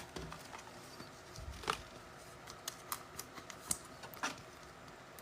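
Faint, scattered clicks and light taps of trading cards being handled and sorted, a few irregular snaps a second apart.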